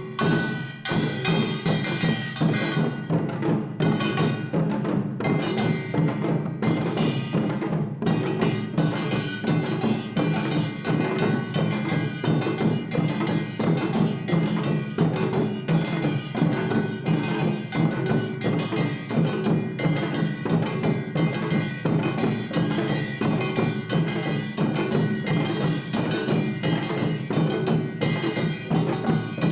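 Traditional Korean percussion ensemble playing: janggu hourglass drum, buk barrel drum, jing gong and kkwaenggwari small gong together. The strikes come fast and dense in a steady rhythm, with ringing tones held over them.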